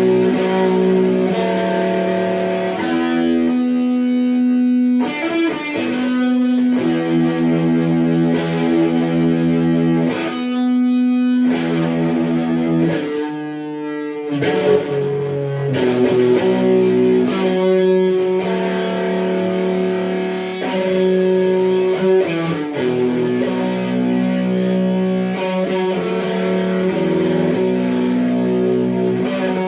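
Electric guitar played through a Sound JS HM-5 distortion pedal, heavy HM-2-style distortion with an almost octave-like character. Held chords and notes that change every few seconds, with a few short breaks between phrases.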